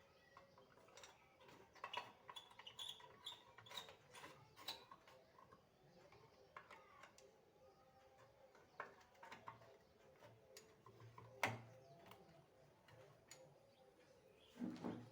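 Faint, irregular clicks and small taps, like small hard parts being handled, with one sharper click about eleven and a half seconds in and a short knock near the end.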